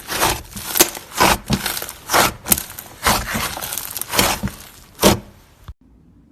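Clay-mixed slime being squeezed and kneaded by hand, giving an uneven run of crackly, squishing pops about twice a second. It cuts off suddenly near the end.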